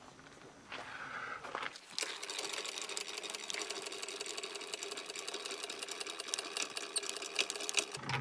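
Travel trailer's electric tongue jack motor running, lowering the trailer's front to bring it level. The steady whir starts about two seconds in and stops near the end.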